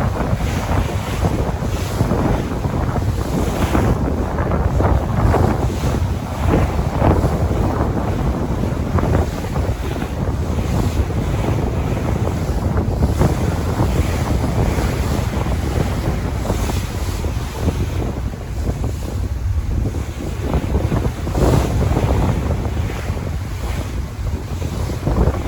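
Sea waves washing on the shore with wind buffeting the microphone, a constant rushing noise with a heavy low rumble that swells and eases irregularly.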